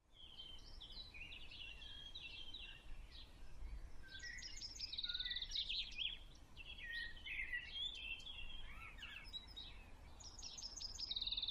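Several small birds chirping and singing faintly, with quick high notes and rapid trills overlapping throughout.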